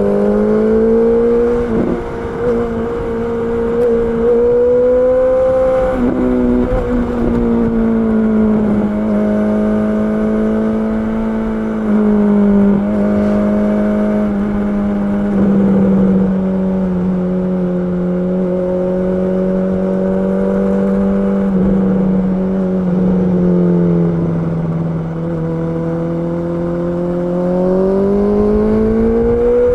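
Honda CB650R's inline-four engine running at fairly steady revs, its pitch stepping up and down a few times and rising toward the end.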